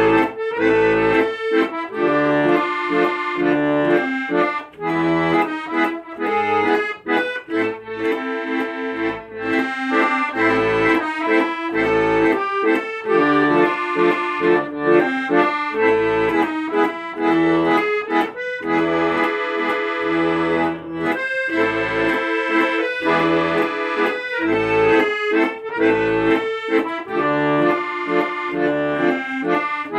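Accordion playing a melody over held chords, with low bass notes sounding about once a second.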